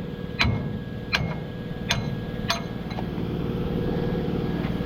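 Four sharp ringing strikes on metal, about two-thirds of a second apart, ending about two and a half seconds in, over a steady running engine.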